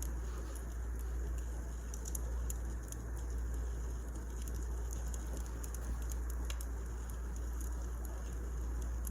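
Wood fire burning in a fireplace: irregular small crackles and pops over a steady low rumble.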